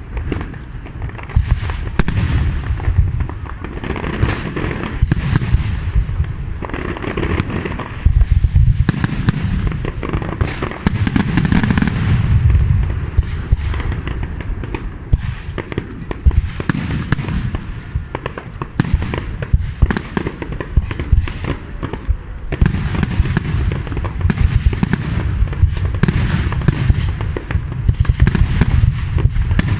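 Aerial fireworks display: a continuous barrage of shell bursts, booms and crackling, with many sharp bangs coming close together.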